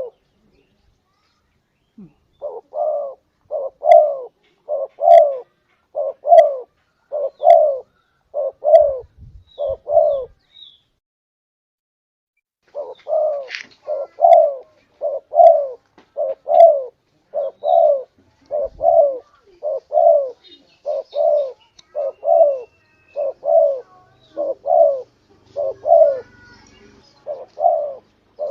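Spotted dove (tekukur) cooing: a long series of low, evenly spaced coos, about two a second, pausing briefly near the start and again about halfway through.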